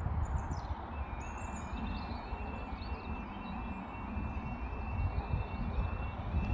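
Level crossing warning alarm sounding a quiet high-pitched warble that repeats about twice a second, starting about a second in, as the barriers come down for a train. Wind buffets the microphone, and birds chirp at the start.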